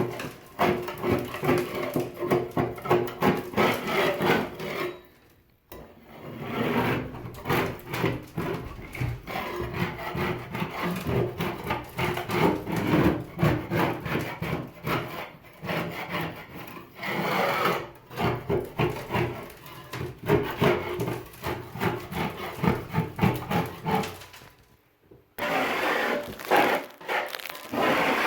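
Paint being scraped off a surface with a hand scraper: a long run of quick rasping strokes, stopping briefly twice.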